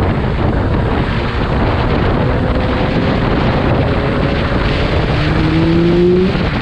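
Wind rushing over a riding motorcycle's on-board microphone. Under it the engine note rises gently as the bike accelerates, most clearly from about five seconds in.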